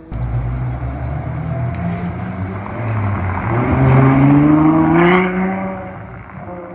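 Ferrari 812 Superfast's V12 with a Novitec exhaust accelerating hard: the engine note starts suddenly, climbs in pitch and loudness to a peak about four to five seconds in, then drops away abruptly and fades.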